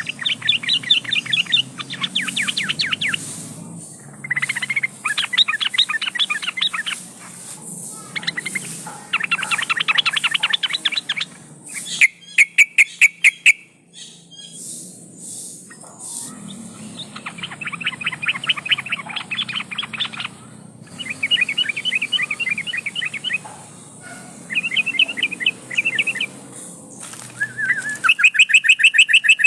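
Yellow-vented bulbul (trucukan) singing: repeated one-to-three-second bursts of rapid, bubbly chattering notes with short pauses between them. About twelve seconds in there is a quick run of sharp clicks.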